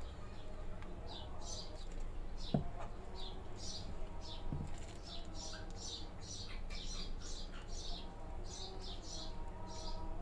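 A small bird chirping over and over, short high falling chirps about two a second.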